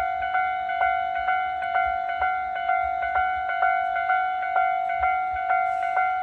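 Railway level-crossing warning bell ringing, a steady ding-ding struck about twice a second, each strike ringing on into the next. A faint low rumble lies beneath it.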